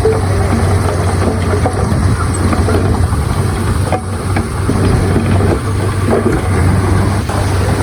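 A heavy diesel engine of earthmoving machinery running steadily with a deep hum, with light metallic clanks scattered through it.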